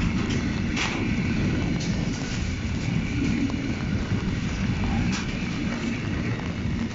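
Freight train of container wagons rolling past at speed: a steady low rumble of wheels on rails, with a few sharp clacks.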